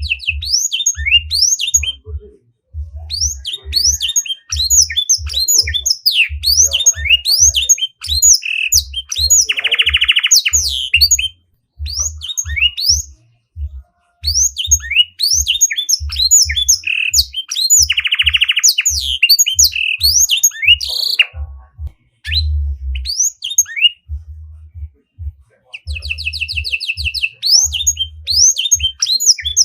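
Small songbird singing a fast, varied chattering song of short sweeping chirps, broken twice by a long buzzy trill, with brief pauses between phrases.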